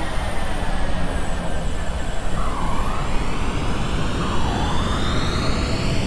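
Airbus A380 jet engines during landing: a steady roar with several whining tones that glide slowly down in pitch, and two short dipping tones in the middle.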